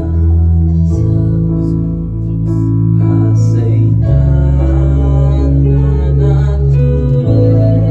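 A live band playing slow, held chords over a deep bass line, part of a worship song. The chord changes about a second in, again at about four seconds and near the end.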